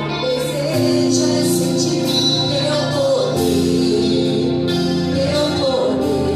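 Worship music: singing over sustained instrumental chords that change every second or two.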